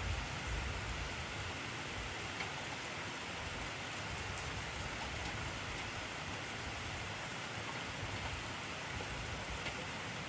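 Heavy rain falling steadily: a dense, even hiss of rain on surfaces, with a few faint individual drop clicks.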